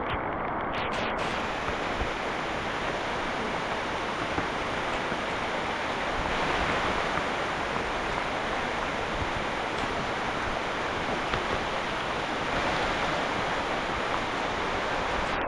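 Steady rushing of water, a dense even hiss that swells slightly a couple of times, typical of heavy rain on rainforest foliage.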